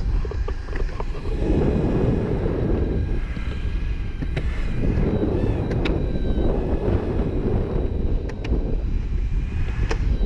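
Evolve Bamboo electric longboard on the move: steady rumble of its wheels rolling on pavement, mixed with wind buffeting the microphone, and a faint high whine from its brushless motors.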